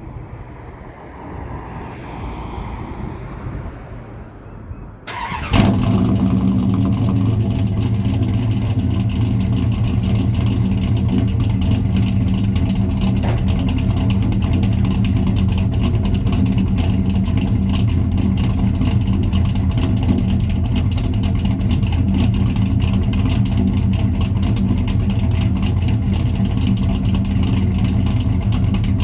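1998 Dodge Ram 1500 5.9 V8, cammed, with long-tube headers, no cats and Black Widow Angry Housewife mufflers on true duals, starting up: it fires about five seconds in and settles straight into a loud, steady idle.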